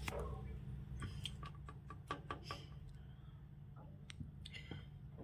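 Pet parrot making faint clicks and a few brief soft squeaks, over a low steady hum.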